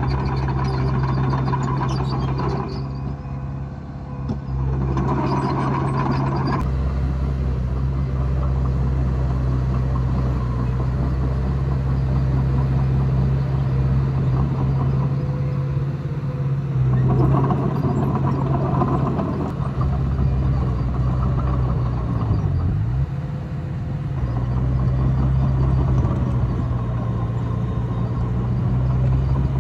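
Komatsu D20A bulldozer's diesel engine running steadily with a strong low hum, easing off briefly twice: about three seconds in and again about two-thirds of the way through.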